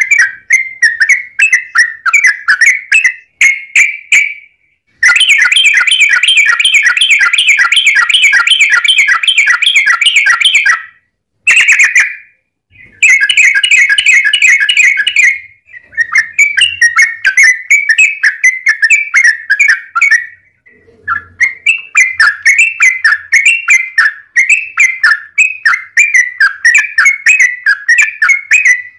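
Yellow-vented bulbul (trucukan) song in long, rapid runs of short bubbly notes, repeated many times a second with brief breaks between phrases. Its most packed and loudest stretch comes a few seconds in.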